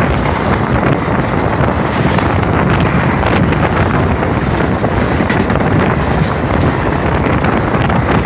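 Express passenger train passing close at speed: a loud, steady rush of wheels and air, with wind buffeting the microphone.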